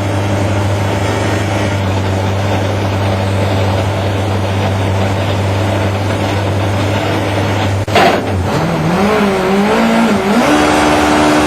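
BMW E36 race car engine running at a steady idle, then a sharp crack about eight seconds in, after which the engine is revved up and down several times.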